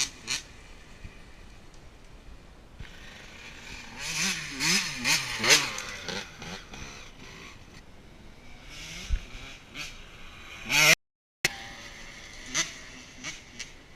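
Motorcycle engine being revved and let off repeatedly, its pitch climbing and falling several times in quick succession, with sharp bursts of noise in between. The sound cuts out completely for about half a second a little after the middle.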